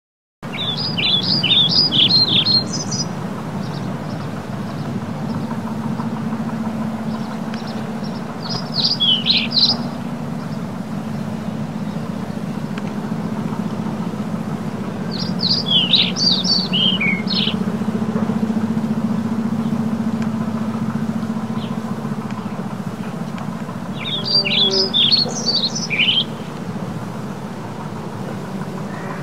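Birds chirping in four short bursts of rapid, high chirps, spaced several seconds apart, over a steady low hum of background noise.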